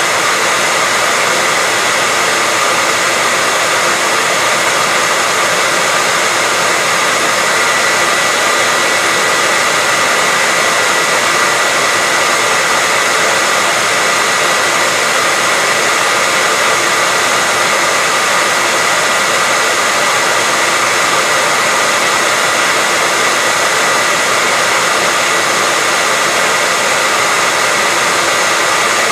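Hair dryer running steadily, a constant even blowing hiss with a faint steady whine near the top, used as white noise to lull a baby to sleep.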